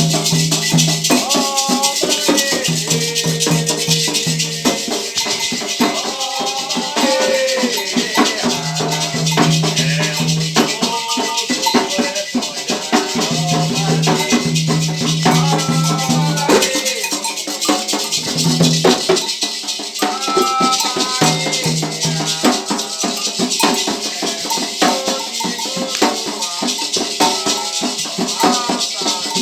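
Candomblé ritual music: voices singing over continuous shaking of hand rattles.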